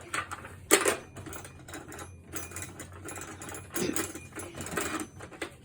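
Rapid irregular clicking and rattling of small hard objects being handled, with a sharper clack about a second in.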